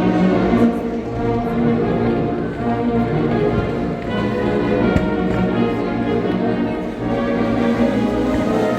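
A Oaxacan philharmonic wind band playing, with brass holding sustained chords and a couple of sharp hits.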